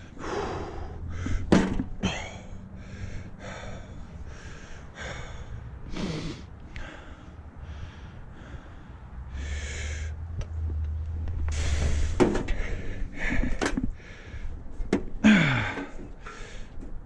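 A man breathing hard in short gasps and huffs, straining under a heavy load as he lifts a heavy tractor part by hand. A few sharp knocks of the part are heard along the way.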